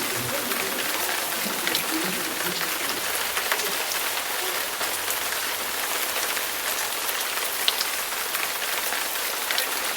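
Steady rain falling, with a sharper drop tapping now and then.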